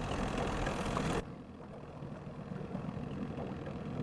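Boat engine running steadily with a low rumble and wash of noise. It cuts off abruptly about a second in, leaving a quieter low rumble.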